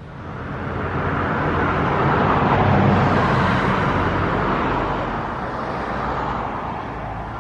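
A motor vehicle passing by on the road: its engine and tyre noise grow louder over the first few seconds, then slowly fade away.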